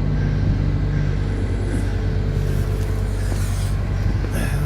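Steady low engine hum, like a motor vehicle idling nearby, with a couple of brief hisses in the second half.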